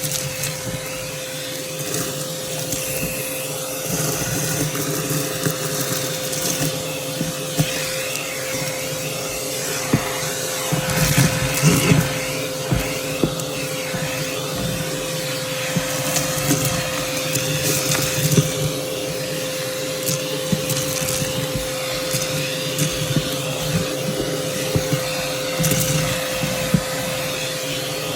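Vacuum cleaner running with a steady motor whine, its dusting brush attachment sucking up debris with scattered crunchy crackles, loudest about a third of the way in.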